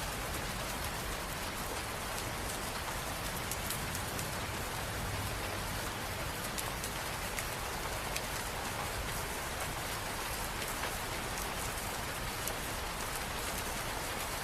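Steady rain falling, an even hiss with many distinct drops ticking on surfaces.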